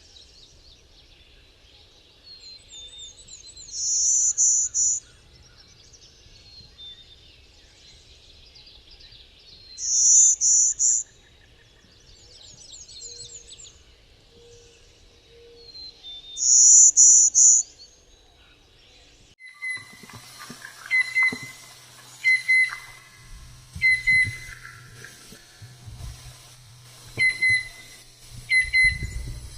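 Songbirds singing. A loud, high trilled phrase comes three times, about six seconds apart, among softer chirps. After a sudden change about two-thirds in, another bird gives short repeated calls about once a second.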